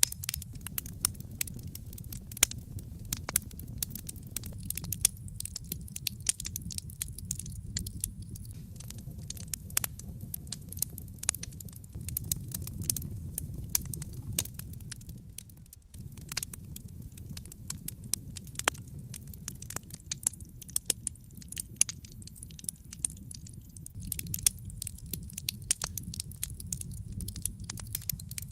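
Wood fire crackling, with frequent sharp pops and snaps over a steady low rumble of burning. The rumble dips briefly about halfway through.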